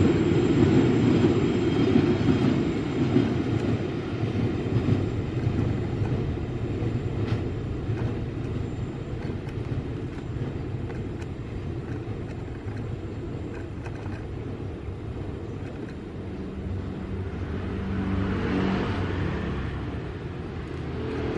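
A train running past on the rails, its noise loudest at first and slowly fading as it moves away. A motor vehicle's engine comes up and passes near the end.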